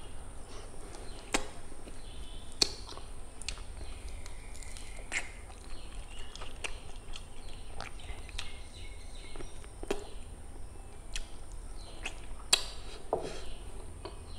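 Close-up eating sounds: chewing and wet mouth smacks as a chicken leg piece is eaten by hand, with scattered sharp clicks every second or two over a low steady hum.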